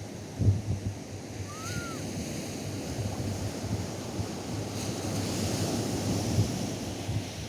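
Atlantic surf washing on a sandy beach, with wind buffeting the microphone in low gusts; the wash swells about five seconds in. A short faint whistle-like chirp rises and falls about a second and a half in.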